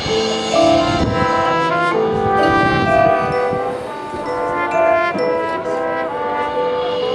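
High school marching band playing: brass (trombones and trumpets) sounding sustained chords and short melodic figures over drums.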